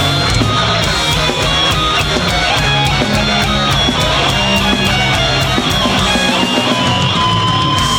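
Live heavy metal band playing loud: distorted electric guitars, bass and drums with a steady run of cymbal hits. About seven seconds in, a long high note is held over the riff.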